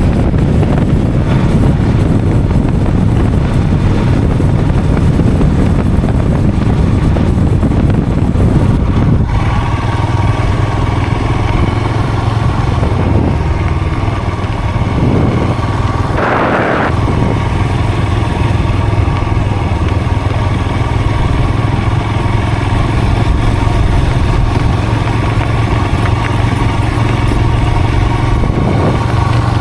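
A vehicle engine running steadily on the move. A heavy low rumble gives way about nine seconds in to a steadier engine hum, with a brief louder rush about sixteen seconds in.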